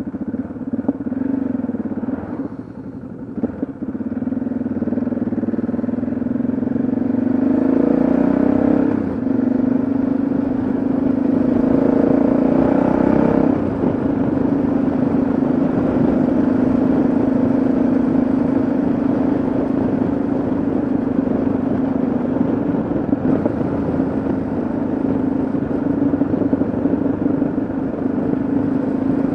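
Yamaha XT660Z Ténéré's single-cylinder engine running on the move, with a steady engine note that dips briefly about three seconds in, rises around eight seconds in and drops back about thirteen seconds in as the throttle changes.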